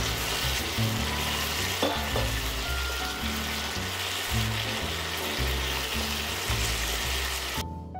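Chicken, cashew nuts and dried chilies sizzling in hot oil in a nonstick pan as they are stir-fried with silicone tongs. The sizzling cuts off suddenly near the end.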